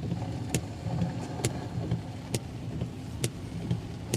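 Inside a car driving through heavy rain: a steady low rumble of engine and tyres on the wet road, with a sharp click repeating about once a second.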